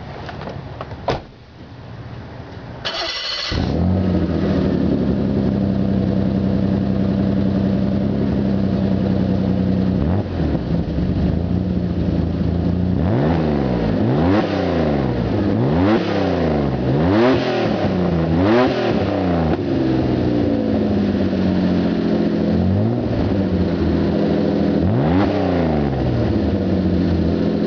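1991 BMW 535i's straight-six engine on a straight-piped exhaust, cranked and catching about three seconds in, then idling steadily. About halfway through it is revved in several quick throttle blips, then one longer rev that falls away slowly, and one more blip before it settles back to idle.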